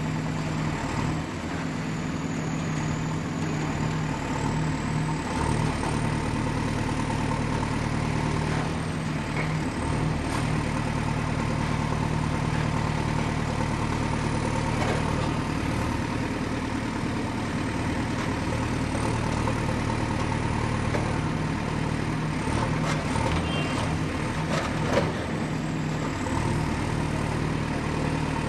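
Excavator's diesel engine running steadily at a constant pitch, with a few faint knocks near the end.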